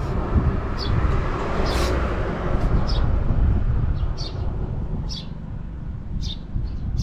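Honda Motra's small four-stroke single-cylinder engine idling, which the owner calls quite quiet with no abnormal noise. Birds chirp repeatedly over it.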